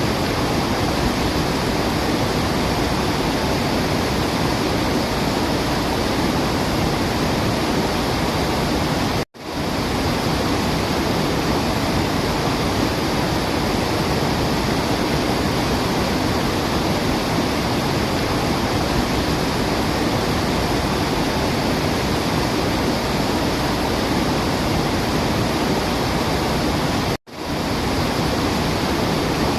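Steady rushing of falling water, as of a waterfall, an even roar with no bird calls standing out. It cuts out for a split second twice, about nine seconds in and again near the end, then resumes at once.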